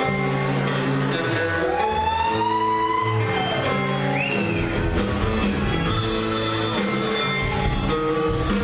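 Live rock band playing, with guitars over sustained bass notes. A lead note slides up and back down about two seconds in.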